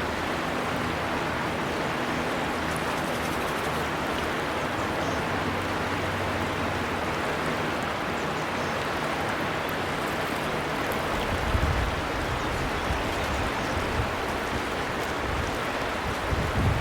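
River water flowing, a steady rushing wash. From about eleven seconds in, irregular low rumbles join it underneath.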